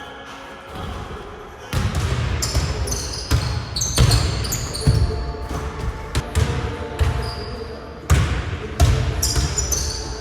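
Basketball bouncing hard on a gym floor with sneakers squeaking, starting a little under two seconds in and running as a string of irregular thuds and short high squeaks.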